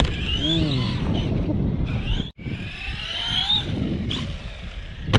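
Arrma Typhon 3S RC buggy's Hobbywing 4000kV brushless motor whining up in pitch as it accelerates, twice, over a steady low rumble. The sound cuts out for a moment about two seconds in.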